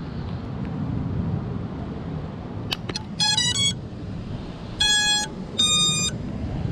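FPV quadcopter's ESCs playing their power-up tones as a 6S LiPo pack is plugged in: a click, a quick run of short electronic notes, then two longer beeps. Wind rumbles on the microphone throughout.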